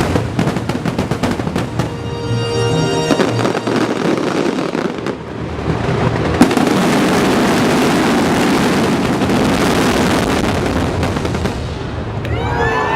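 Fireworks finale: a quick run of separate bursts and crackles, then from about six seconds in a dense, continuous barrage of explosions. Music plays under it.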